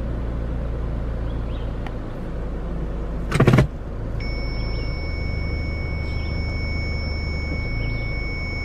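Subaru Impreza's flat-four engine idling steadily after being started. A short, loud knock comes about three and a half seconds in, and from about four seconds on a steady high electronic tone sounds over the idle.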